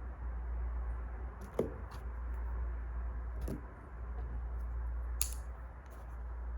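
Wood fire crackling: a steady low rumble and hiss with several sharp pops and snaps, the loudest a little after five seconds in.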